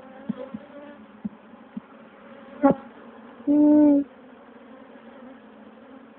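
Honeybees buzzing around an open hive, a steady hum, with a few light ticks and a sharp click near the middle. About three and a half seconds in, a single loud buzz lasts about half a second.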